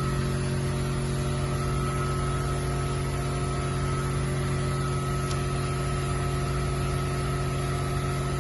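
Steady mechanical hum of a running machine, with several constant tones that stay unchanged throughout.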